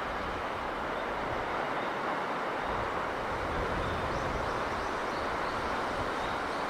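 Steady rushing of sea breeze and surf, with low rumbling swells now and then and faint high chirps.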